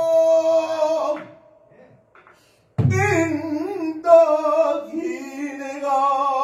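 Pansori singing: a long held vocal note fades out about a second in, a short silence follows, then a drum stroke near three seconds and the singer comes back in with a wavering, bending melodic line.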